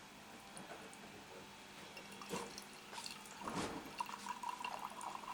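Water being poured in a thin trickling stream into porcelain teaware, starting about three and a half seconds in, after a couple of light clicks.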